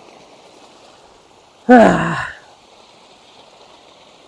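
Steady hiss of a flowing stream. About two seconds in, a man's voice makes one short sound that falls in pitch.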